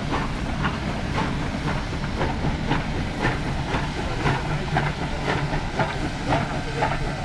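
Sumpter Valley Railway train running: a steady low rumble with sharp clacks or chuffs coming irregularly, about two a second.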